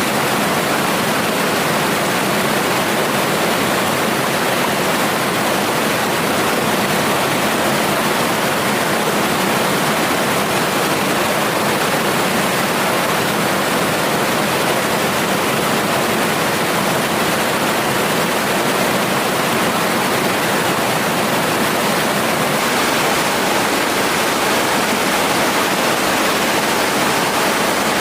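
Mountain stream water rushing steadily, a loud, even wash of sound.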